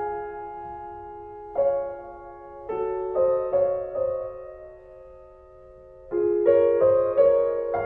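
Slow piano music: chords and single notes struck one after another, each ringing and fading, with a quieter lull about two thirds of the way through before fuller chords come in.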